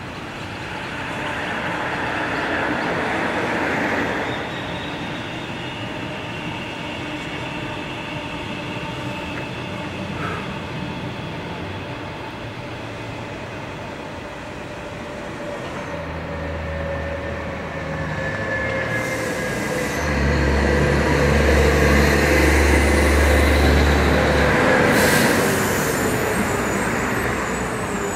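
Double-deck electric suburban trains passing on the rails: steady running noise with a whine that glides down in pitch as a train goes by. It swells loudest about two-thirds of the way in, with a brief sharp noise near the end of that peak.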